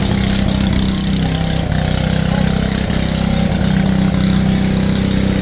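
Steam-powered Frick sawmill running steadily, with a constant low hum.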